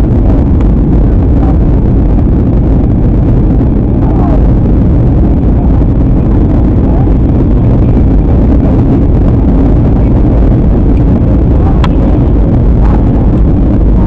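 Steady, loud drone inside an airliner cabin in flight: engine and airflow noise, heaviest in the low end, with a faint click about twelve seconds in.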